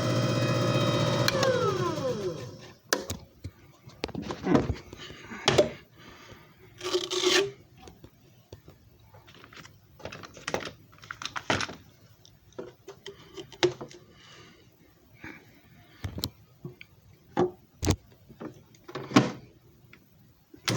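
JFJ Easy Pro disc repair machine's motor spinning down, its hum falling in pitch and stopping about two seconds in. Then a series of scattered clicks, knocks and rubbing sounds.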